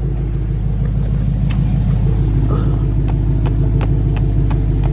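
Dodge Scat Pack's 6.4-litre 392 HEMI V8 idling steadily with a deep, even rumble, with a few light clicks over it.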